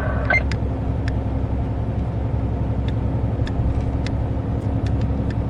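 Steady low drone of a long-haul truck heard from inside the cab, with a few faint, scattered ticks.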